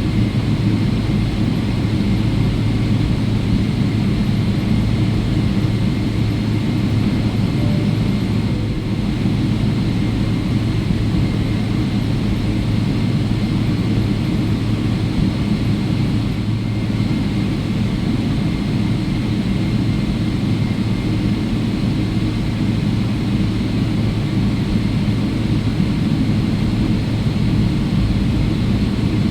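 Boeing 777-300ER taxiing after landing, its GE90 engines at idle: a steady low rumble with a faint steady whine above it.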